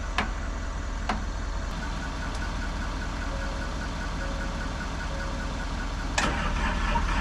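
Ford F350 pickup engine idling steadily with jumper cables to the excavator's batteries, with a few sharp clicks in the first second or so and a louder sharp knock about six seconds in.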